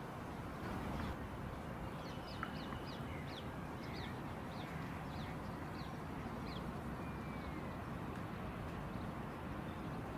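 A small bird calling in a quick series of short, high, falling chirps, about two a second, from about two seconds in until about seven seconds, over a steady low background rumble.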